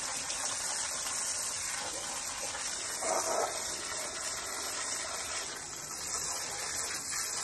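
Steady spray from a hose nozzle blasting caked mud out of a mini excavator: an unbroken hiss, with a brief louder patch about three seconds in.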